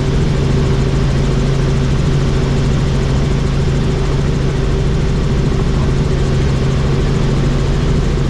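Helicopter in flight, heard from on board: steady, loud rotor and engine noise with a fast, even blade pulse and a constant low drone.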